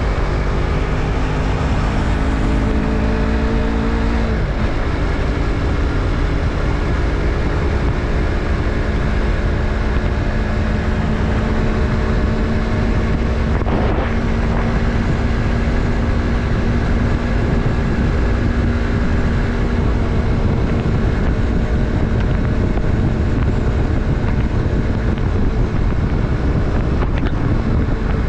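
Yamaha MT-03's parallel-twin engine under way, its pitch rising for about four seconds, then dropping and holding steady, with wind rumbling on the microphone. There is a short knock about halfway through.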